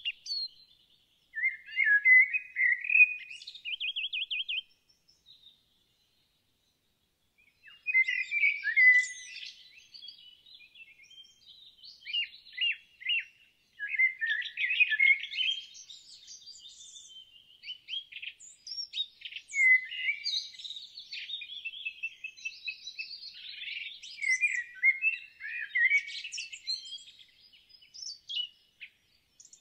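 Songbirds singing: quick chirps, warbled phrases and rapid trills, broken by about three seconds of dead silence a few seconds in, then near-continuous song.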